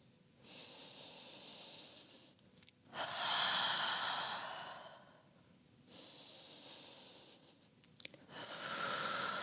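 A woman breathing slowly and audibly, four long, even breaths with short pauses between them.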